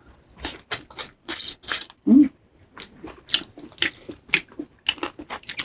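Close-miked eating sounds: irregular wet chewing, smacking and mouth clicks as food is eaten, with a short hummed "mm" about two seconds in.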